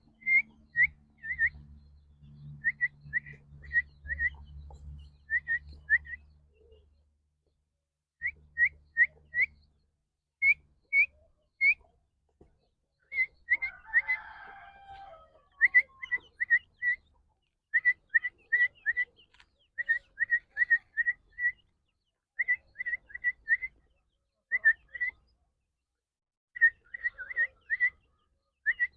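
Partridge calling: short, rising whistled notes in quick runs of three or four, repeated again and again. A low hum is under the first few seconds.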